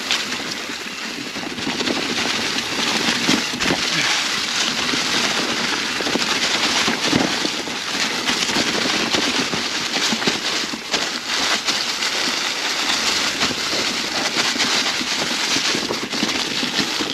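Dry fall leaves crunching and crackling under mountain bike tyres rolling over the trail, a steady dense crackle.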